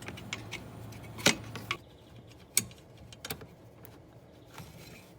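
Irregular metallic clicks and clinks of a wrench on the nut that holds a Tesla Model S wiper transmission, with two sharper knocks about a second and two and a half seconds in. A low hum underneath stops about two seconds in.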